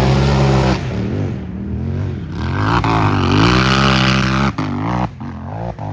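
Unlimited-class race UTV engine running hard under throttle, its revs dipping about a second in, climbing again, then falling with several sudden short cut-outs near the end.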